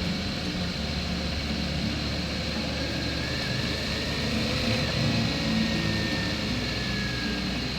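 Motorcycle engine running steadily, with a low rumble and wind noise.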